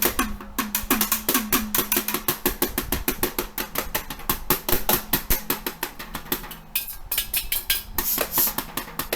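Instrumental song intro: a drum kit playing a fast, busy beat with crashing cymbals, a low held note underneath for the first few seconds.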